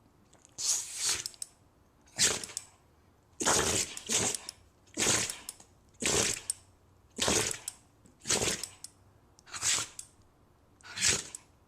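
A dog sneezing again and again, about ten short, hissing sneezes roughly one a second, a few of them coming in quick pairs.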